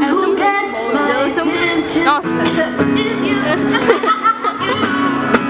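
Female pop vocal group singing live during an acoustic sound check, with instrumental accompaniment.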